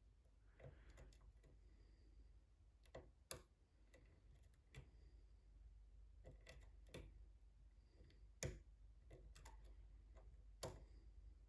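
Faint, irregular clicks of a lock pick and tension wrench working the pins of a pin-tumbler challenge lock, over a low steady hum.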